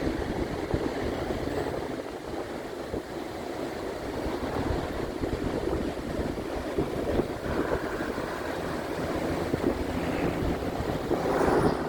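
Ocean surf and wind blowing on the microphone: a steady rushing noise, crackling with gusts, that swells near the end.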